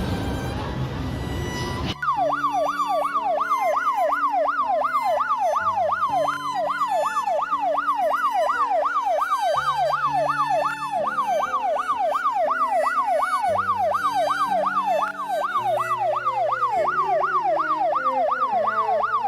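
Electronic yelp siren sweeping rapidly up and down, about three times a second, starting about two seconds in, with music playing underneath.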